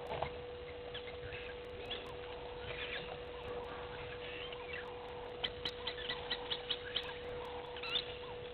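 Wild birds calling: scattered chirps and short whistles, with a quick run of about seven sharp notes a little past the middle. A steady hum runs underneath.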